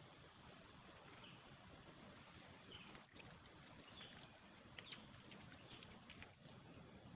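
Near silence: faint forest ambience with a steady high-pitched insect hum, a few faint chirps and a few soft ticks.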